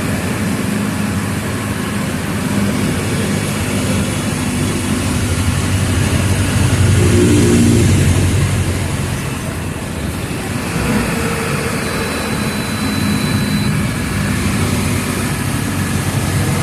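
Mercedes-Benz OF 1722M bus's diesel engine running under way, pulling harder and louder partway through, then easing off about ten seconds in and building again.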